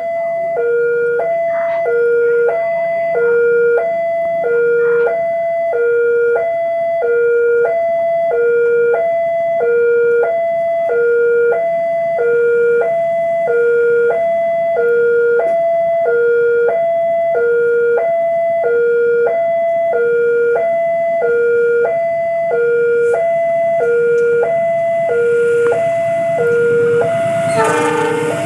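Railway level-crossing warning alarm sounding a steady two-tone ding-dong, a low and a higher note alternating about once every 1.3 seconds, signalling that a train is approaching. In the last second the noise of the oncoming train begins to rise over it.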